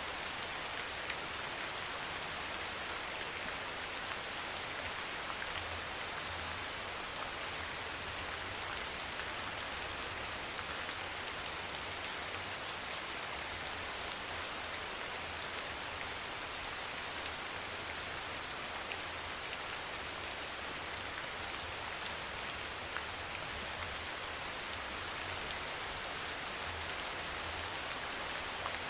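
Steady rain falling, an even hiss of many drops with occasional single drops ticking out above it.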